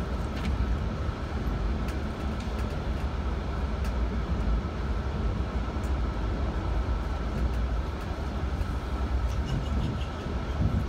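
Passenger train running, heard from inside the carriage: a steady low rumble with a faint, steady high whine over it and a few light ticks.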